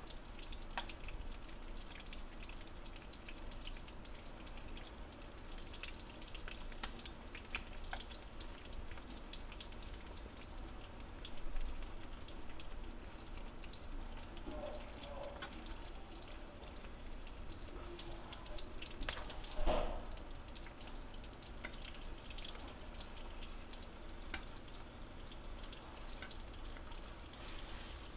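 Oil sizzling in a nonstick frying pan as sausages and fish balls shallow-fry, with a steady crackle and scattered pops of spitting oil. Twice, about a third of the way in and again past the middle, there is a louder knock from the metal tongs turning the food in the pan.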